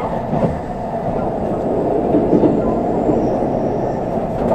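Running noise of an N700S Shinkansen heard from inside the passenger cabin: a steady low rumble and rush of the train moving along the track, swelling slightly about halfway through.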